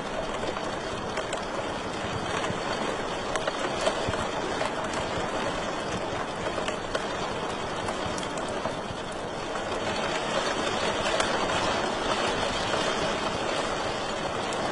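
Wood fire crackling in a fireplace: a steady hiss of burning with scattered small sharp pops and snaps.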